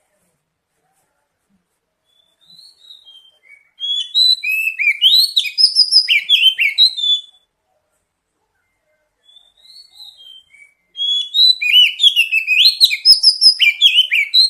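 Oriental magpie-robin (kacer) singing: two phrases, each opening with a few soft notes and then a loud run of rapid, varied high whistles, separated by a pause of about two seconds.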